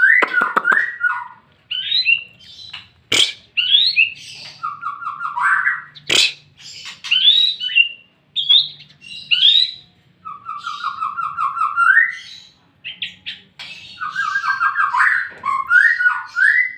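White-rumped shama (murai batu) song: a string of varied phrases of rapid trilled notes and rising whistles, broken by short pauses, with two sharp clicks about three and six seconds in. It is a lure song meant to make other shamas sing back.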